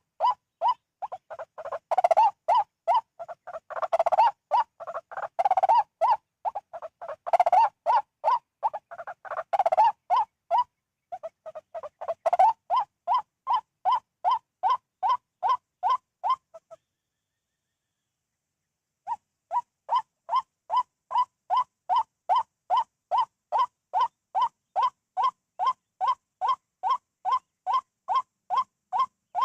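White-breasted waterhen calls: a run of short, harsh notes repeated about twice a second. The run breaks off for about two seconds in the middle, then starts again.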